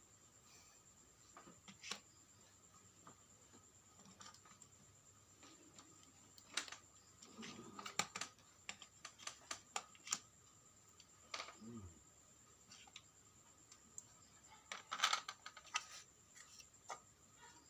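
Irregular light clicks and taps of small hard parts being handled, loudest about 15 seconds in, over a faint steady high-pitched whine.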